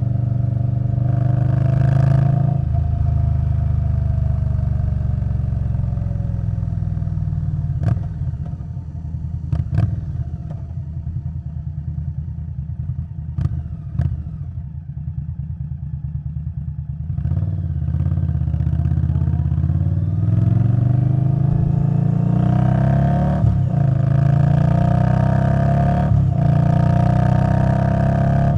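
Indian Scout Bobber Twenty's V-twin engine through a Vance & Hines Twin Slash exhaust. It slows with a falling pitch, runs more quietly for a while with a few sharp clicks, then accelerates through the gears from a little past halfway, its pitch rising in repeated steps.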